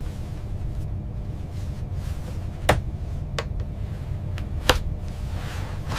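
A steady low rumble with four sharp knocks over it, the loudest two about three and five seconds in.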